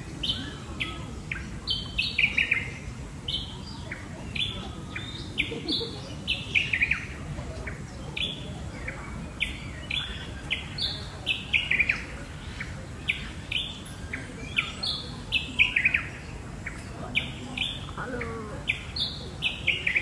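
Many birds chirping together: short falling chirps, several a second, overlapping.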